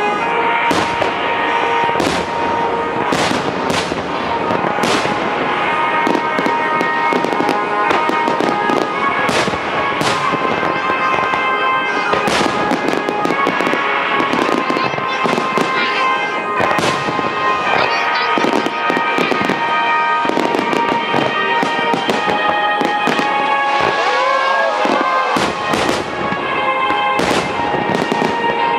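Starmine fireworks barrage: shells bursting in rapid, overlapping bangs and crackles with no pause, over music with long held tones.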